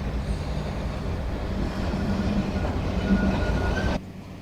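A tram running past on its rails, a steady low rumble with a thin wheel squeal near the end. The sound cuts off suddenly about four seconds in.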